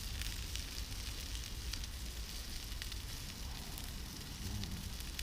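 Food sizzling over a hot campfire, a steady frying hiss with scattered sharp crackles from the burning sticks.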